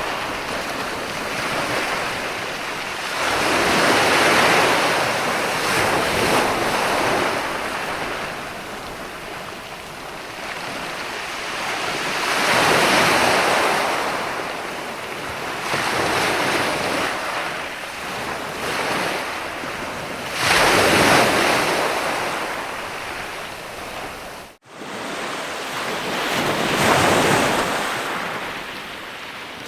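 Ocean waves breaking and washing in, a rushing hiss that swells and fades every few seconds. Near the end the sound cuts out for an instant.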